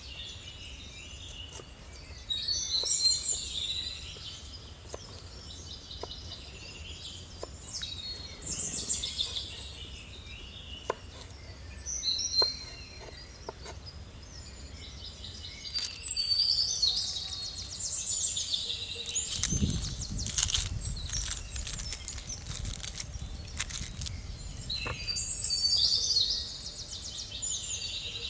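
Wild songbirds singing outdoors in repeated bursts of high chirping song, a few seconds apart. Scattered sharp clicks and knocks sound between the songs, and a low rumble with a cluster of clicks comes about two-thirds of the way through.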